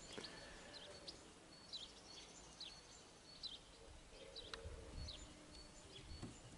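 Near silence with faint birdsong: short high chirps, about two a second, over quiet outdoor background.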